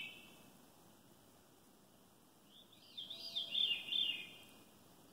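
A songbird singing a phrase of quick rising-and-falling whistled notes about two and a half seconds in, lasting under two seconds, with the tail of an earlier phrase at the very start.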